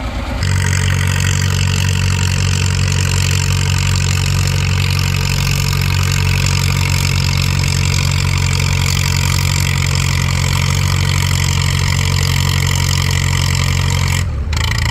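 Antique pulling tractor's engine running hard at a steady pitch under full load as it drags the weight-transfer sled down the track, then cutting off abruptly near the end.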